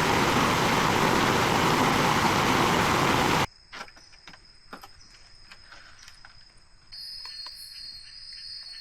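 Heavy rain pouring down as a loud, even hiss, which cuts off abruptly about three and a half seconds in. Then quieter jungle ambience with scattered small ticks, and from about seven seconds in a steady high-pitched insect drone, like a cricket, sets in.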